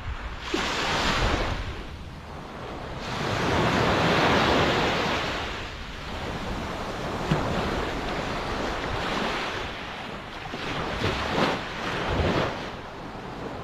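Ocean waves washing ashore, swelling and fading in surges. The loudest swell comes about three to six seconds in, and shorter, choppier rushes follow near the end.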